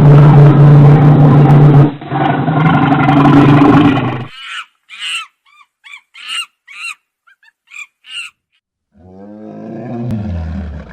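Animal calls: two long, loud roars held at a steady low pitch, then a quick series of about ten short high chirping calls, then a lower call that falls in pitch near the end.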